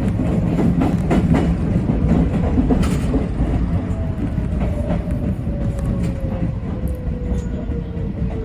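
Yoro Railway 7700 series electric train running on the rails, with the click of wheels over rail joints. From about four seconds in, a whine slides slowly down in pitch as the train slows.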